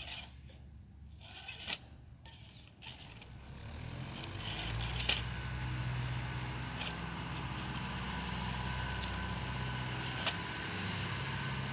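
Axial SCX10 II radio-controlled crawler's electric motor and gear drive running steadily, coming in about four seconds in after a few light clicks and scrapes.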